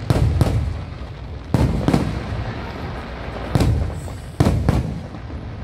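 Aerial fireworks shells bursting overhead: about seven sharp bangs, several in quick pairs, each trailing off in a rolling echo.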